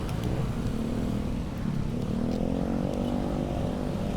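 Street traffic: a motor vehicle's engine running close by, its pitch drifting slowly up and down, over a steady low rumble of wind and road noise from the moving bike.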